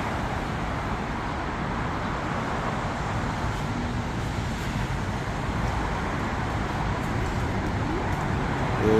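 Steady rumble of an approaching SRT Alstom AD24C diesel-electric locomotive hauling a tank-car freight train, growing slightly louder as it nears.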